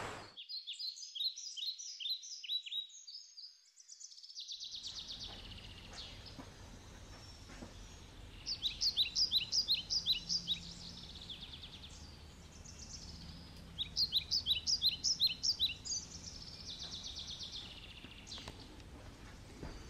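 A songbird singing in repeated phrases of quick, high chirps, each phrase about two seconds long and loudest about nine and fourteen seconds in, over a faint steady outdoor background.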